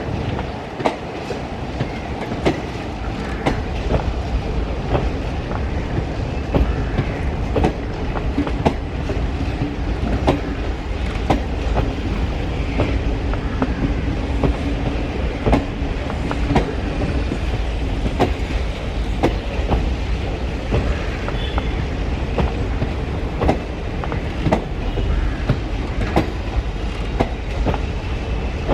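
Passenger train hauled by a WAP7 electric locomotive rolling past, a steady rumble with wheels clicking sharply over the rail joints.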